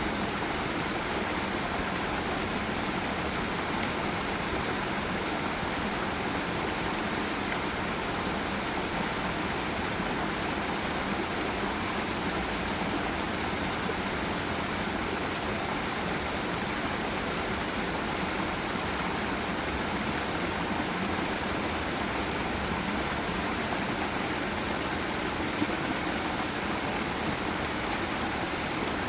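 Steady rushing of a forest river and waterfall, an even wash of water noise that doesn't change.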